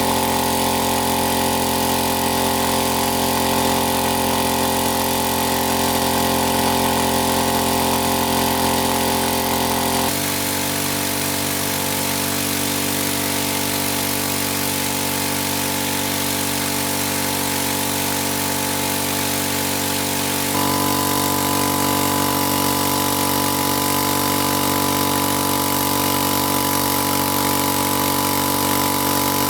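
A small engine running steadily at a constant speed, its pitch shifting abruptly twice, at about a third and two thirds of the way through.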